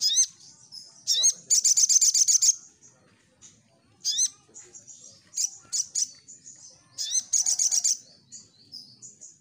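Crimson sunbird singing: sharp high chirps and quick sweeping notes, broken by two fast rattling trills of about a second each, one early in the song and one near the end.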